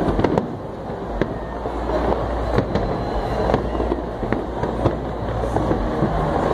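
Fireworks display: a continuous rumble of aerial shell bursts, with sharp bangs and crackles at irregular intervals, about one or two a second.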